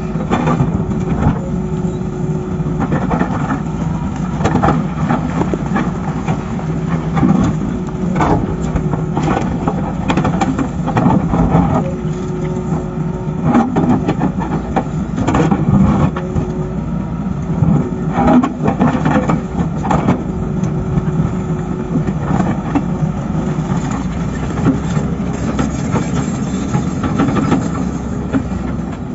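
Heavy diesel excavator working rock: the engine runs steadily under load, with repeated knocks and scrapes throughout.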